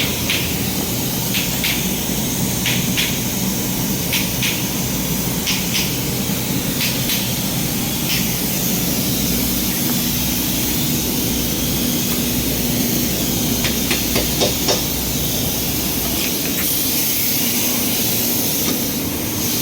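Steady machine hum and hiss, with short light clicks and taps every second or so from hand tools as a part is taken off the car. The clicks stop about three quarters of the way through.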